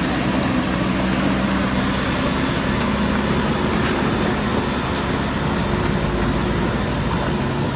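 Truck engine running steadily, a low even drone with no change in pitch.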